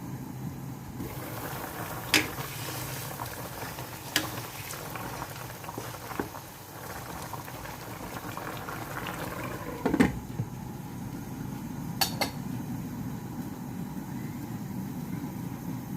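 Chicken wings in black pepper sauce bubbling as they stew in a pot, with a few sharp clinks of a utensil against the pot, the loudest about two-thirds of the way through.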